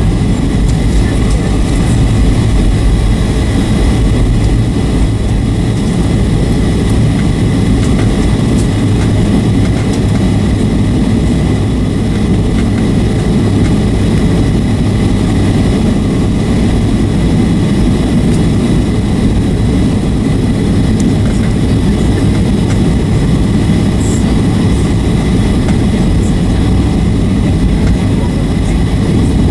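Steady cabin noise of a Boeing 757-300 in flight on approach: a constant rumble of jet engines and rushing air, with faint steady whines above it.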